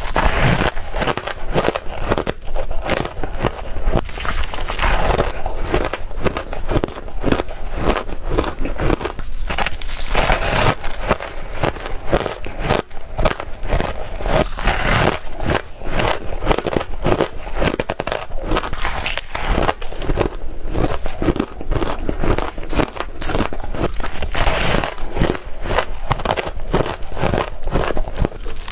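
Close-up biting and chewing of frozen ice bars: a dense, continuous run of sharp crunching and crackling as the ice breaks between the teeth.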